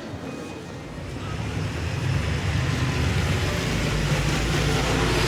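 City street traffic: a low rumble and hiss of passing vehicles that grows louder about a second in and holds steady.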